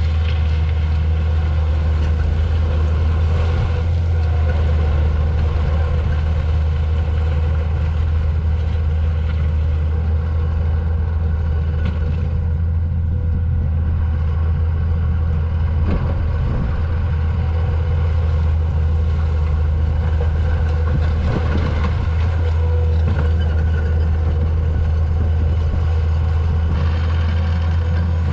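Diesel engine of a Takeuchi compact track loader running steadily at working speed while the machine spreads rock into potholes.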